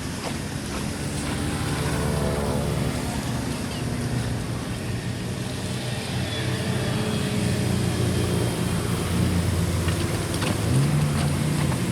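An engine running, its pitch rising about a second in and shifting again near the end, over a steady rushing noise.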